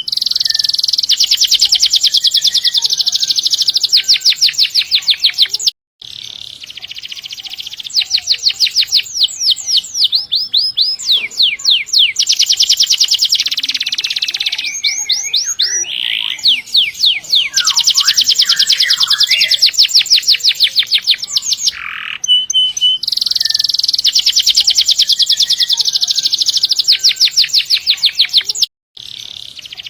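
Domestic canary singing loudly in long, rapid rolling trills of quickly repeated high notes, the song broken off twice by a brief silence.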